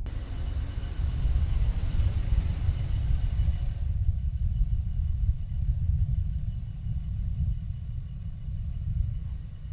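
Truck driving: a steady, low engine and road rumble.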